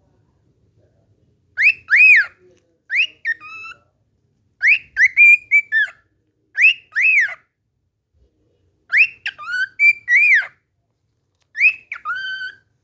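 Pet cockatiel whistling its one learned tune, about six short phrases of rising-and-falling whistled notes with brief pauses between them, the same tune over and over.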